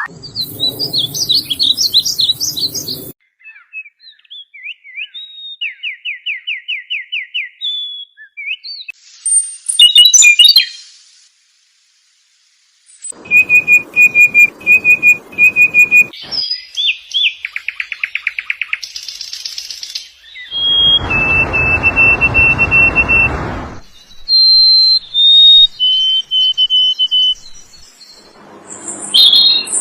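A string of different bird calls and songs, chirps, rapid trills and clear whistled notes, spliced together with abrupt cuts between them and a short silent gap about a third of the way through.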